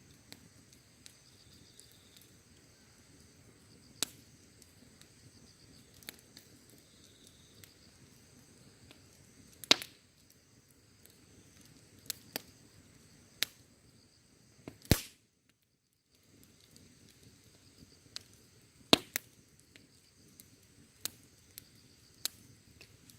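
Wood campfire crackling with sharp, irregular pops and a few louder snaps, over steady high-pitched insect chirping. The sound cuts out for about a second just after the loudest snap.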